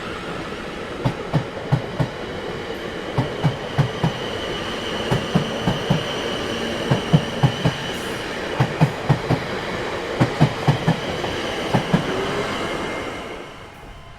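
Train wheels clattering over rail joints in quick groups of knocks, under steady rumbling running noise and a thin high steady squeal. The sound fades out near the end.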